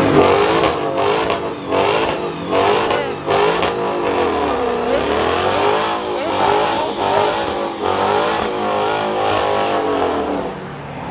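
Car engine revving hard, the revs rising and falling over and over, with one deep drop and climb about five seconds in.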